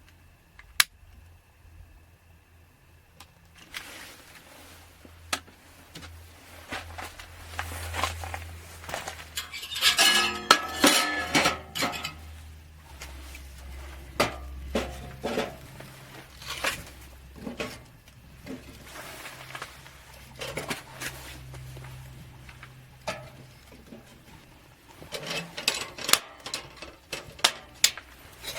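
Metal utensils clinking and scraping against pots and dishes in a run of sharp, irregular clinks. The clinks come thickest about ten seconds in and again near the end.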